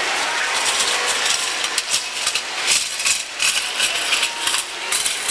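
Popcorn machine running, with a steady rushing noise and, from about two seconds in, a rapid irregular crackle of clicks that fits kernels popping in the kettle.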